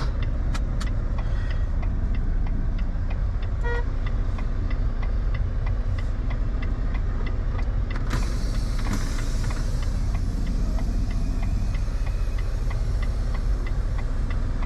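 Steady low rumble inside a semi-truck cab in heavy rain and wind, with a regular clicking about twice a second. A hiss comes in sharply about eight seconds in and holds.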